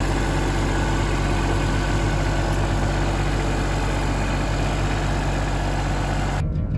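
A heavy engine idling steadily, with a deep, even low hum, cut off suddenly near the end.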